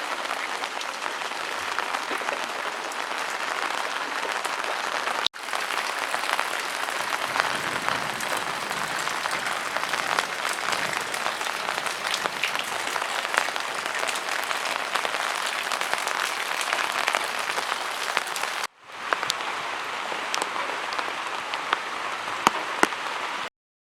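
Heavy rain falling steadily: a dense hiss of countless drop impacts. It cuts out briefly twice, about five seconds in and again near nineteen seconds, and stops abruptly just before the end.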